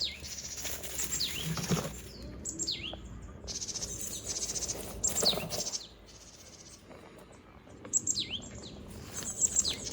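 Small birds calling: repeated short, high chirps that drop sharply in pitch, with a fast buzzy trill a few seconds in.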